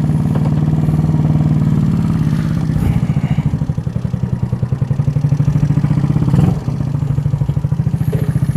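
A GY6 scooter's single-cylinder four-stroke engine, bored out to 88cc, running at a steady idle with an even pulsing beat and no revving. The engine is freshly built and still being broken in. There is a brief clunk about six and a half seconds in.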